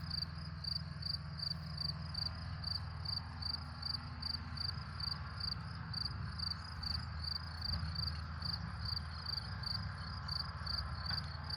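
Field crickets chirping steadily, about three to four chirps a second, with a tractor engine's low steady drone underneath.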